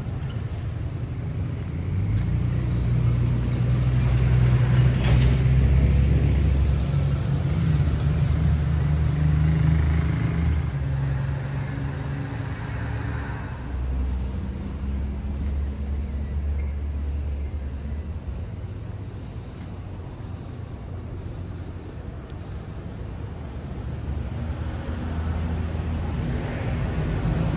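Street traffic: motor vehicle engines running and passing close by, a steady low hum. It is loudest in the first half, eases for a while, then builds again near the end.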